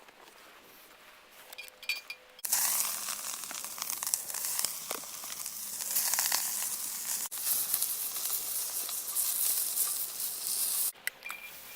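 A few light clicks, then food starts sizzling on a cast iron campfire griddle about two and a half seconds in. The sizzling is a steady, loud, crackly hiss that cuts off shortly before the end.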